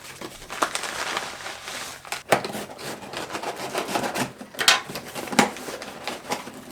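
Packaging rustling and crinkling as a parcel is handled and opened, with a few sharper crackles about two, four and a half and five seconds in.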